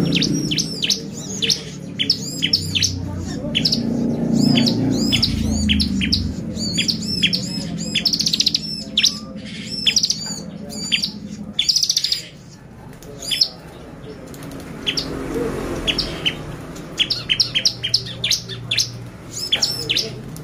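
Bar-winged prinia (ciblek) singing a fast, chattering song of short high chirps and arched notes, broken by brief rapid trills.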